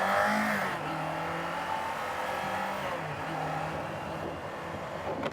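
Kawasaki Z500's parallel-twin engine running under way, its pitch stepping up and down with the throttle, under a steady rush of wind noise on the microphone.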